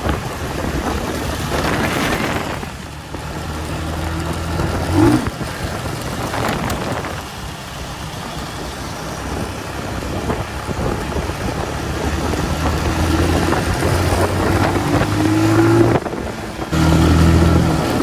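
Motorcycle engine running under way, with wind rushing over the microphone. The engine pitch rises about five seconds in and again around fifteen seconds, dips briefly, then runs louder near the end.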